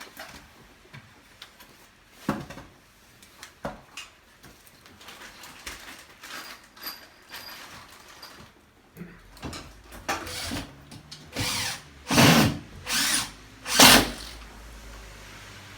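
A power tool run in several short bursts, the loudest near the end, after a stretch of scattered clicks and knocks of installation work.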